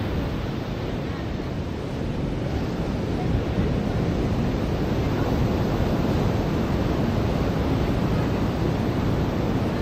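Ocean surf washing onto a beach: a steady rushing noise that grows a little louder about three seconds in.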